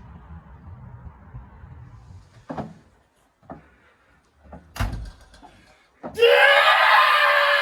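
Two sharp knocks, then about six seconds in a person lets out a loud, drawn-out yell lasting over two seconds.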